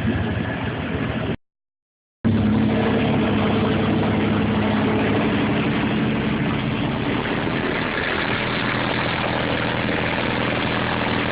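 Car engine idling steadily, with a low, even hum. The sound cuts out completely for about a second near the start.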